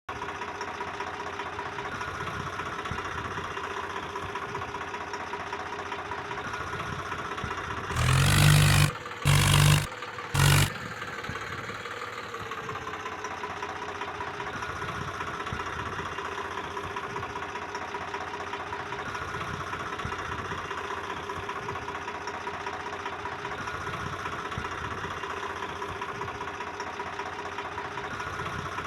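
Tractor engine running steadily. About eight seconds in come three short, very loud blasts with a low steady tone, each under a second long, followed by a brief shift in the engine's pitch.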